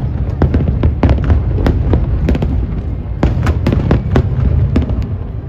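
Aerial fireworks display: a rapid, irregular string of sharp bangs and cracks, several a second, over a continuous low rumble.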